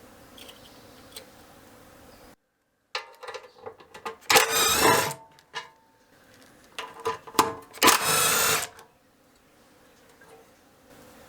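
Workshop tool work on a small engine: scattered metal clicks, then two short bursts of fast mechanical rattling, each under a second long and the loudest sounds here.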